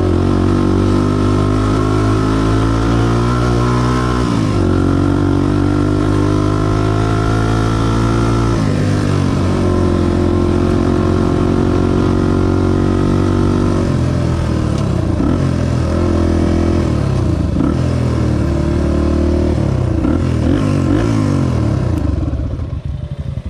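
Honda XR250 single-cylinder four-stroke dirt bike engine pulling through the gears. It climbs in revs, drops sharply at two upshifts, then revs up and down repeatedly as the throttle is opened and closed. The sound fades near the end.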